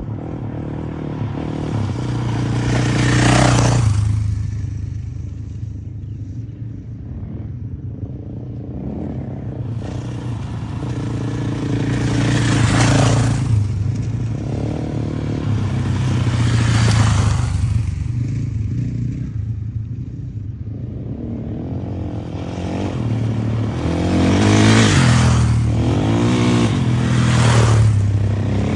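Motocross bike engines running throughout, with five louder surges as bikes rev hard or pass close by, the pitch bending near the end.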